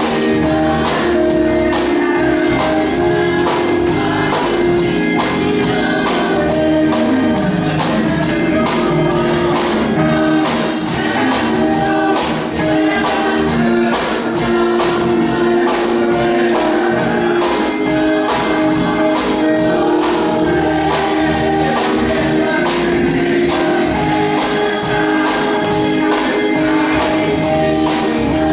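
Gospel music: a choir singing sustained chords over a tambourine shaking on a steady beat.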